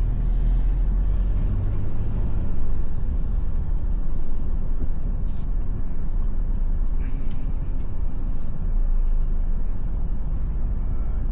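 Low, steady rumble of the Toyota Land Cruiser 250 running, heard from inside the cabin as it rolls slowly or idles.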